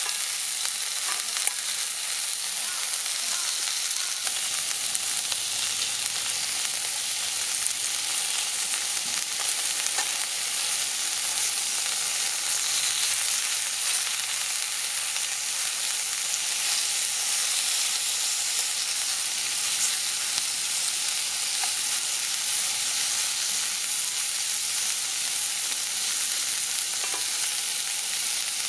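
Food frying in a pan over a campfire: a steady sizzle with a few faint pops.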